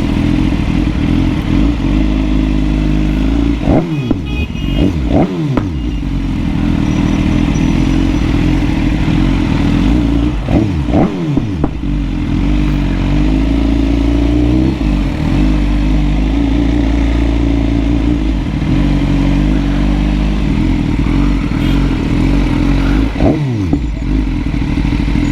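BMW superbike engine running steadily as the bike is ridden. Its pitch sweeps up and down a few times as the revs change.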